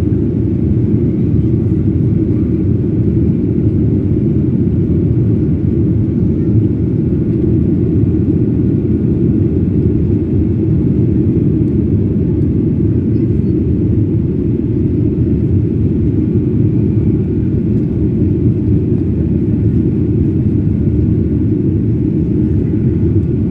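Steady low rumble of a Boeing 737-800's jet engines, even and unchanging throughout.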